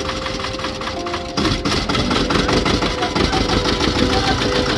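Motorboat engine running steadily with a fast, even clatter.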